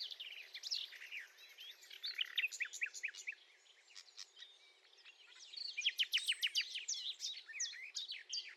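Common nightingale singing: phrases of quick repeated notes and slurred whistles, a lull of a couple of seconds midway, then a dense run of rapid notes.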